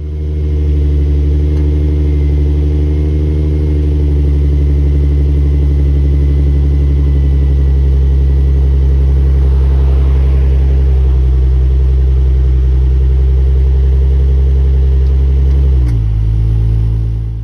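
Infiniti G35's 3.5-litre V6 running at a steady idle, heard from behind the car near the exhaust. Its tone drops slightly near the end.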